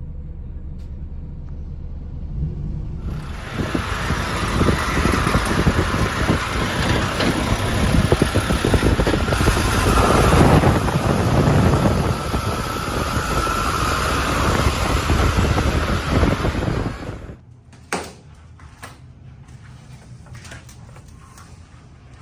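Motor vehicle noise: a low rumble swells about three seconds in into loud engine and road noise, peaks around the middle, then cuts off abruptly near the end, leaving a few faint clicks.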